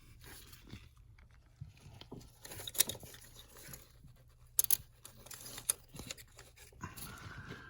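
Scattered clicks, light knocks and rustling of hand work with tools or parts, with a brief squeak near the end.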